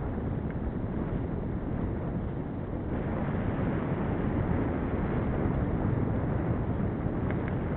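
Steady wind rush on the microphone while riding a bicycle, mixed with rolling road noise, with a few faint ticks near the end.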